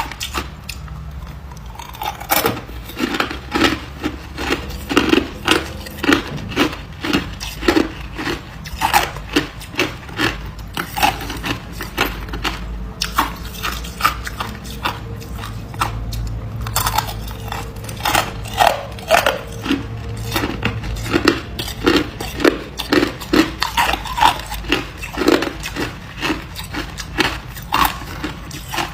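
A person biting and chewing hard ice, close up: a steady run of loud, sharp crunches, about two a second, over a low steady hum.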